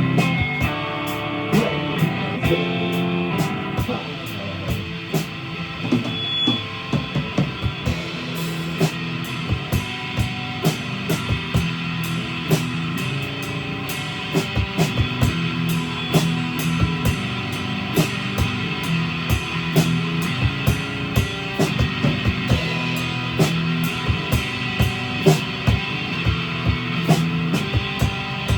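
Live rock band playing an instrumental passage on guitar and drum kit, with frequent sharp drum and cymbal hits over sustained guitar.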